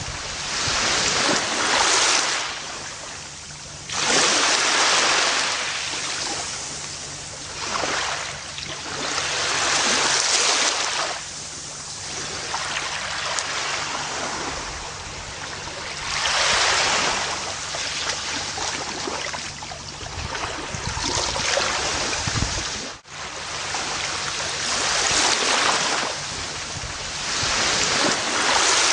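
Gentle ocean waves breaking and washing up a beach, the surf swelling and falling back every few seconds. There is a momentary dip in the sound about two-thirds of the way through.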